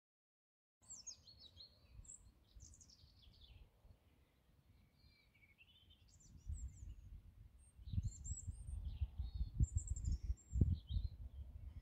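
Small songbirds chirping and calling, starting about a second in. From about six seconds in, a low rumbling buffeting on the microphone grows louder, with a few sharper low thumps.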